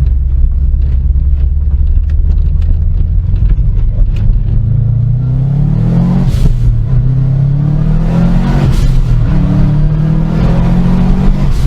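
Car engine pulling hard through the gears. A steady low drone for about five seconds, then the pitch climbs, drops at a gear change, climbs again, and drops once more before holding steadier near the end.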